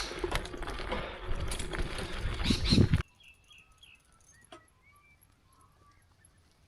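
Loud rustling and rattling noise from the ride, which cuts off abruptly about three seconds in. After that it is quiet, with faint short chirps from small birds.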